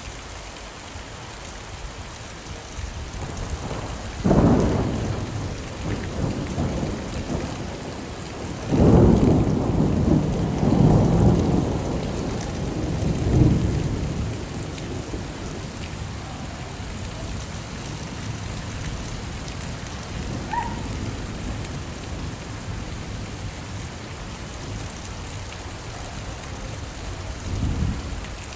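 Steady rain with thunder: a sudden rumble about four seconds in, a longer rolling rumble from about nine to fourteen seconds, and a softer one near the end.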